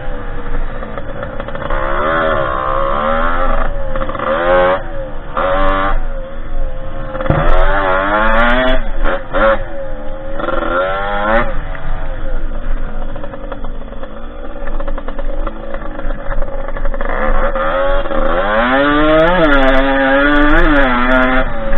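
Derbi 50cc two-stroke engine in a dirt bike, ridden hard: revving up and down again and again, with a long climb in pitch near the end.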